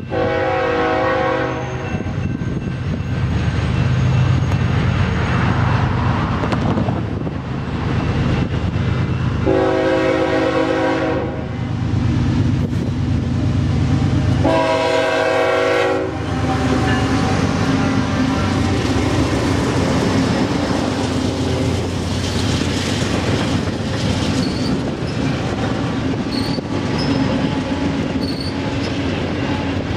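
A pair of BNSF GE diesel locomotives sounds its horn three times, about 2 s, 2 s and 1.5 s long, over the steady rumble of its engines as it approaches. The loaded double-stack intermodal cars then clatter past on the rails, with faint wheel squeal near the end.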